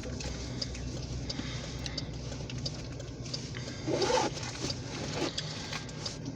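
Diesel locomotives of a light-power move approaching, their engines giving a steady low rumble with faint ticks over it; a brief wavering sound rises over the rumble about four seconds in.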